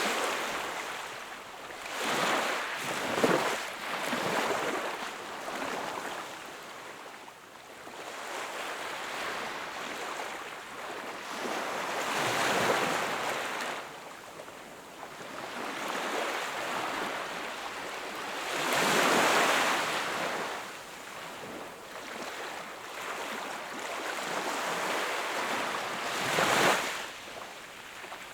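Sea waves washing onto the shore, the hiss of water swelling and fading in uneven surges every few seconds. The biggest surge comes about two-thirds through, with a short sharp one near the end.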